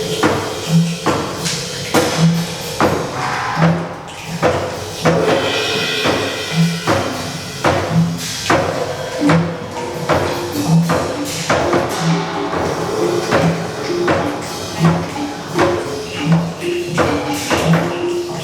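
Group percussion improvisation imitating a rainforest: a low drum struck steadily a little more than a second apart under a dense layer of tapped, shaken and clicking percussion. Short repeated pitched notes join in during the second half.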